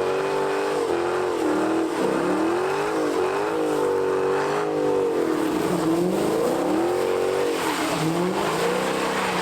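Car engine revving up and down repeatedly, its pitch rising and falling several times.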